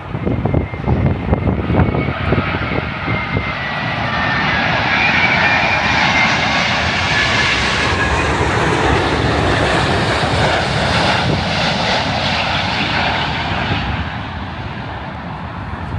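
Jet airliner flying low overhead on its landing approach: the engine noise and whine swell over a few seconds, hold loud, then fade, with the whine slowly falling in pitch as it passes. Wind buffets the microphone in the first couple of seconds.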